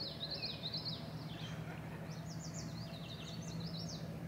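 Songbird singing: a rapid, continuous string of high chirping notes that sweep up and down, with a faint steady low hum underneath.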